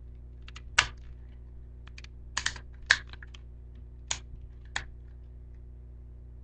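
Hard plastic toy parts of a Samurai Megazord clicking and snapping as the tiger piece is handled: about six sharp clicks, two of them in a quick pair, over a steady low hum.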